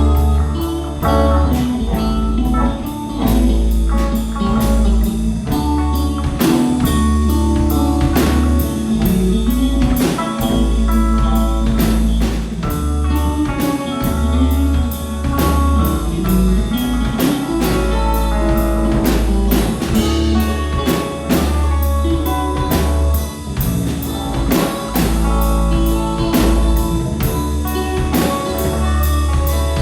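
A band playing a song on drum kit and guitar, with a steady low bass line and evenly repeated cymbal strikes keeping the beat.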